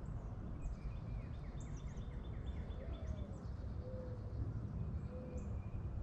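Small birds chirping: a quick run of about a dozen short down-slurred notes in the first half, scattered very high chirps, and a few short low tones later on, over a steady low rumble.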